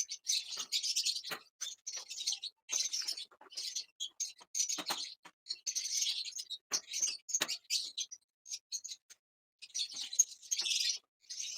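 Lovebirds chattering with rapid, shrill chirps in near-continuous runs, mixed with a few sharp clicks. There is a brief lull before the loudest burst of chirping near the end.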